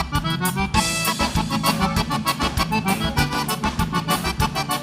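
Live gaúcho dance music: an instrumental break led by accordion (gaita) over a band with a steady beat, between sung verses.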